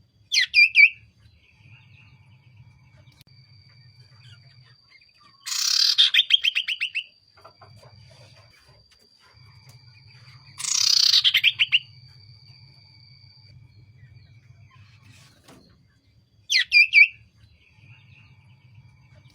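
Common iora (cipoh) calling: a short chirping phrase, then two longer rapid trills about five seconds apart, then another short chirping phrase near the end. Faint steady high whine and a low hum underneath.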